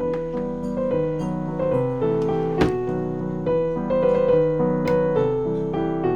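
Background piano music, a gentle melody of held notes, with a short sharp knock about two and a half seconds in.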